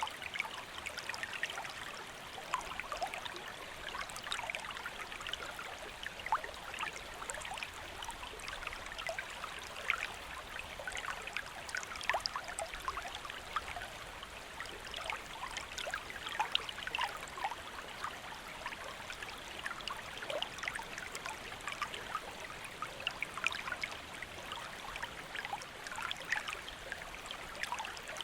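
Shallow stream flowing: a steady rush of water dense with small splashes and trickles.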